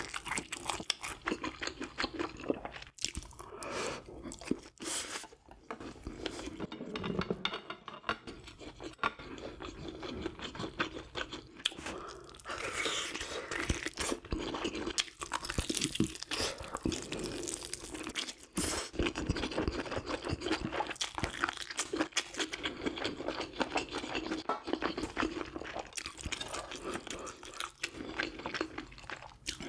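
Close-miked eating: a person chewing and crunching food, with many small wet mouth clicks.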